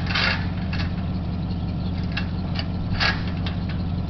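Pickup truck engine idling steadily, with a few short sharp clanks over it, the loudest right at the start and about three seconds in.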